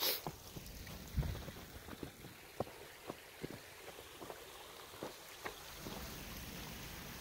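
Footsteps crunching irregularly on snow and ice, with a sharp burst at the very start and a heavy thump about a second in. From about six seconds in, a steady rush of spring runoff flowing through rocks rises underneath.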